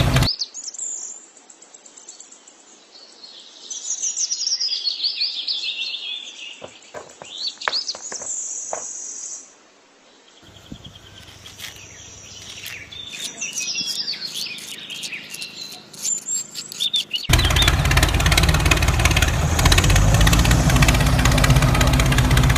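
Birds chirping and calling, many short rising and falling notes, in a nature ambience track. About three-quarters in, a much louder, dense sound cuts in and takes over.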